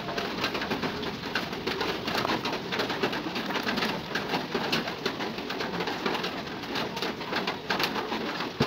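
Birds cooing over and over, with a steady crackle of noise underneath.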